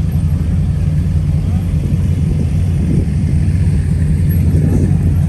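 A car engine idling steadily, with faint voices of people in the background.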